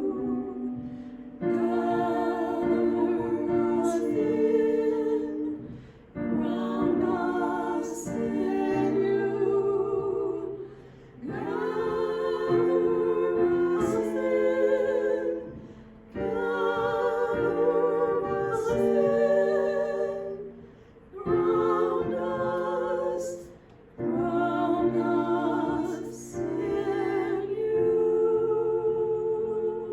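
Choir singing, several voices together in held notes, in phrases a few seconds long with short breaks between them.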